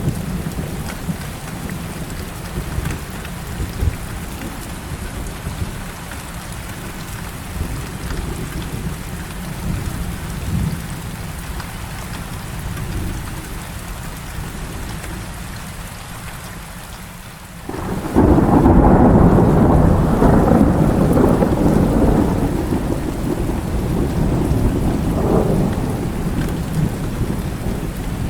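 Steady heavy rain with low thunder rumbling under it. About two-thirds of the way through, a loud thunderclap breaks in suddenly and rumbles on for several seconds, slowly dying away.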